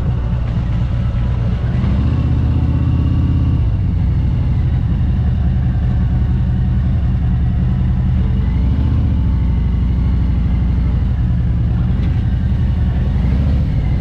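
Harley-Davidson Road Glide Special's V-twin engine running at low speed, its pitch rising and falling a few times with the throttle as the bike rolls along.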